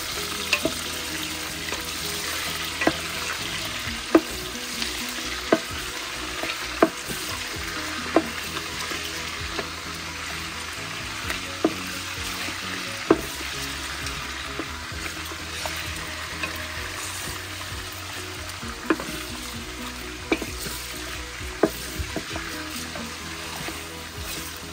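Mutton pieces sizzling in hot oil with onion, ginger and garlic in a metal pot, stirred with a wooden spoon that knocks sharply against the pot every second or so, with a pause midway. The meat is being seared until its colour changes.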